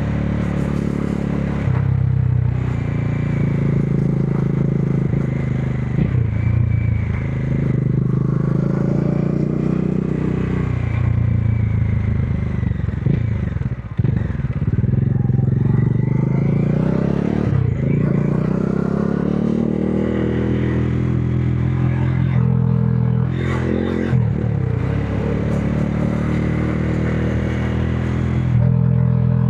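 Modenas Dominar 400's single-cylinder engine and exhaust pulling through the gears: the note climbs, drops sharply at each shift, and climbs again, several times over.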